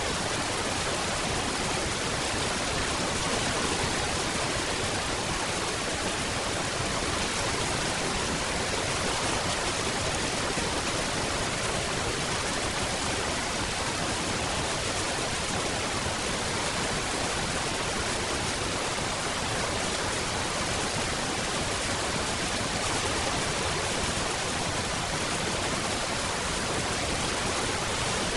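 Steady, even rain: a dense hiss of falling rain with no distinct drops standing out.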